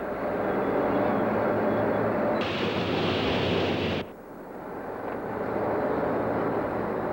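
Heavy machinery running steadily, with a hissing layer joining about two and a half seconds in. The sound cuts off abruptly about four seconds in, then swells back up.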